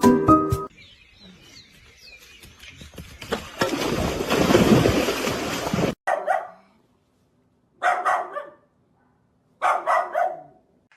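A dog barks in three short bouts about a second and a half apart. Before them, a loud rushing noise lasts a few seconds and cuts off suddenly.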